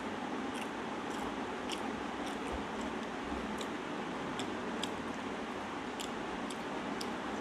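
Close-up eating sounds of a man eating rice and fish curry by hand: chewing, with scattered wet mouth clicks and smacks, and fingers mixing rice on a steel plate. A steady hiss runs underneath.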